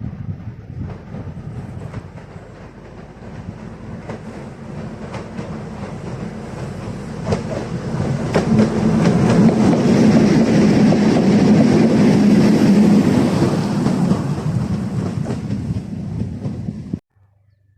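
A train passing close by, growing louder to a peak midway, with the clatter of its wheels over rail joints. The sound cuts off suddenly near the end.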